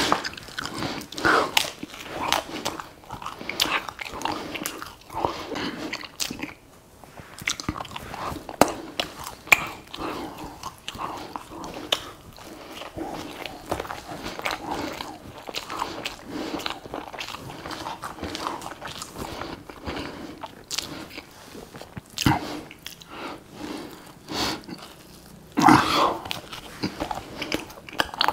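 A person chewing and biting food close to the microphone: irregular wet mouth clicks, smacks and light crunches. Two louder noises come near the end.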